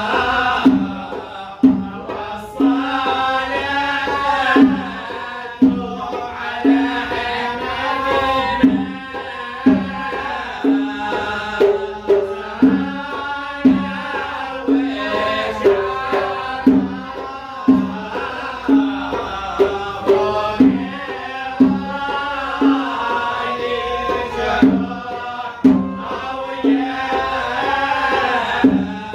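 A wedding troupe performing its entrance song: voices singing together over hand drums, with a low drum stroke about every second.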